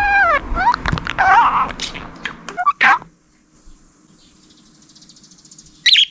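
Budgerigar chattering: squeaky calls that glide up and down in pitch, mixed with clicks, for about three seconds, then a quieter stretch and one sharp chirp near the end.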